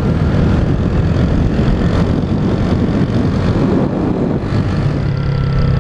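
Honda CG 150 Titan's single-cylinder four-stroke engine running under way, with wind rush over the microphone. The engine note steadies into an even hum about five seconds in.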